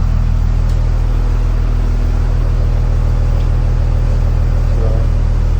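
Engine of a 2000 Blue Bird TC1000 school bus idling steadily as it warms up, a constant low hum.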